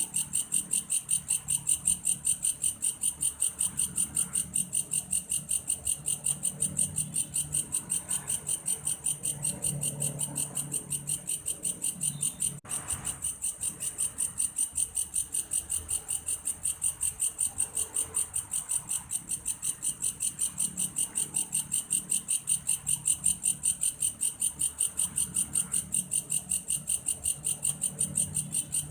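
A belalang kayu grasshopper singing a steady, cricket-like high call made of rapid, evenly spaced pulses. It breaks off briefly about twelve seconds in.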